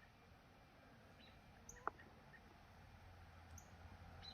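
Near silence outdoors, with faint high chirps about every second and a half. One sharp click comes a little under two seconds in, and a faint low rumble builds near the end.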